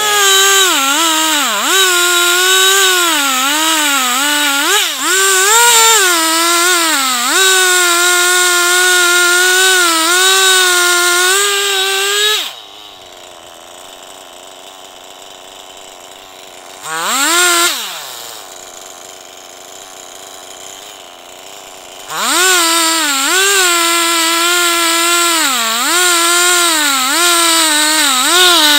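Two-stroke chainsaw ripping a log lengthwise in a chainsaw mill, running at full throttle with its pitch wavering and dipping as the chain bogs in the cut. About halfway through it drops back to idle, revs once briefly, then returns to full throttle and carries on cutting.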